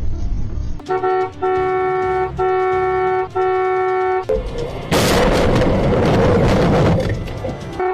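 A two-tone vehicle horn honks four times in quick succession, then a loud rushing noise lasts about two and a half seconds, with background music underneath.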